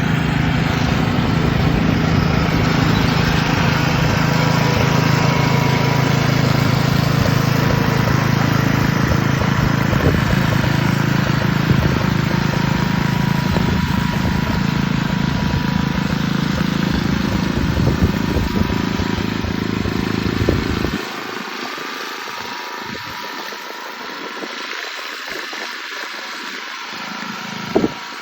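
Lawn mower engine running steadily with a low drone; about three-quarters of the way through its low rumble cuts off abruptly, leaving a quieter hiss and one short knock near the end.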